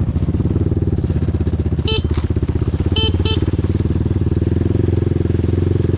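Single motorcycle engine of an enduro bike running steadily at a fairly even speed. Three short high chirps cut through it about two seconds in and twice a second later.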